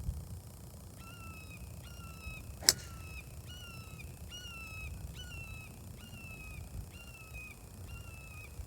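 A golf club strikes a ball once with a sharp crack about two and a half seconds in. Throughout, a bird repeats a short, falling call about twice a second.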